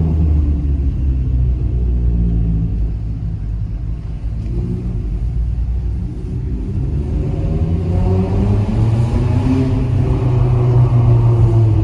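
Straight-piped Mazda 3 Skyactiv 2.0 inline-four exhaust, loud while driving. The revs ease off about four seconds in, then build again through the second half.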